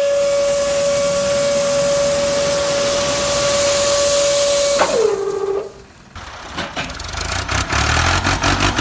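Small electric motor of a DIY mini tractor model whining steadily with a loud hiss. About five seconds in it spins down with a falling pitch and stops, and a rapid clicking follows.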